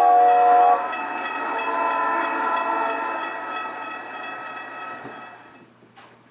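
Train sound effect: a horn chord that cuts off under a second in, then wheels clattering over rail joints in a quick, even rhythm that fades away over the next few seconds.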